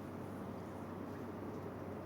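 Steady low background rumble and hiss with a faint constant hum underneath; no distinct event stands out.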